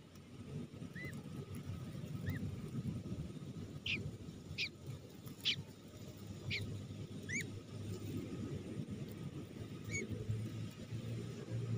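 A bird giving about ten short, separate calls: small arched chirps at first, then sharper, higher sweeping notes in the middle, over a low rumbling background.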